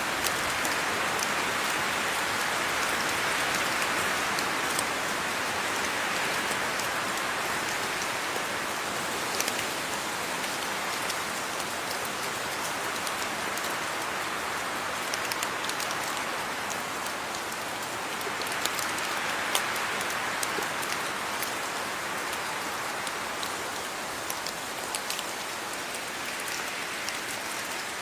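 Steady rain falling: an even hiss with scattered sharp ticks of individual drops hitting a surface.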